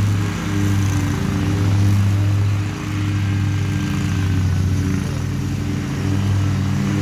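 Lawn mower engine running steadily at a constant speed, with a few brief dips in loudness.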